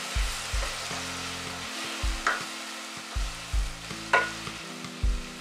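Chopped onions with ginger-garlic paste sizzling in hot oil in a stainless steel pot, stirred with a plastic spoon that scrapes and taps against the pot twice.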